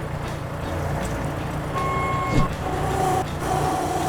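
Mini skid steer's engine running steadily, with a short steady tone near the middle and a high steady whine setting in a little past halfway.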